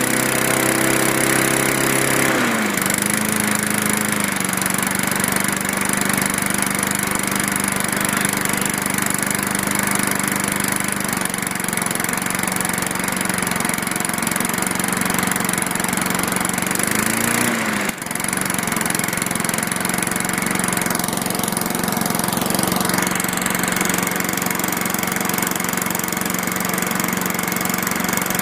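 Briggs & Stratton small engine running steadily on a cold start, its carburetor freshly cleaned and rebuilt. Its speed drops and settles about two and a half seconds in, and it briefly surges and dips once more around eighteen seconds in before running on smoothly.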